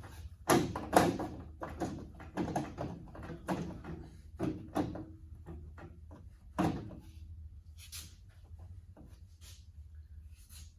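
Metal hand tools and parts knocking and clanking in an irregular string of knocks, the loudest two about half a second and a second in, a few leaving a short metallic ring; a steady low hum runs underneath.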